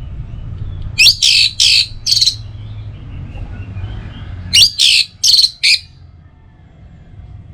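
Orange-headed thrush calling: two bursts of four loud, harsh, rapid notes each, about three seconds apart, over a faint low hum.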